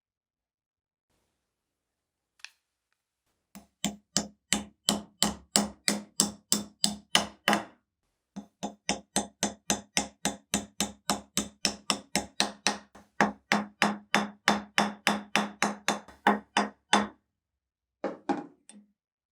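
Rapid, even series of sharp knocks, about four a second, in two long runs with a short break between them, then a few more near the end.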